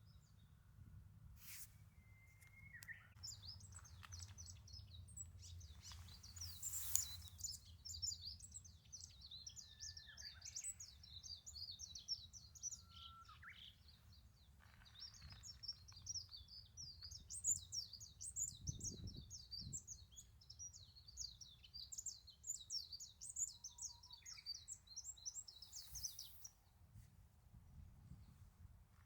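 Birds singing: a long, fast run of high chirping notes goes on almost throughout, with a few separate lower whistled notes now and then, over a faint steady low rumble.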